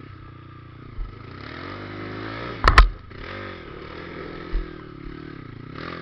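Trail motorcycle engine running and revving up and down as it works through mud. About halfway through there is a loud sharp double clatter, and there are low thumps about a second in and near the end.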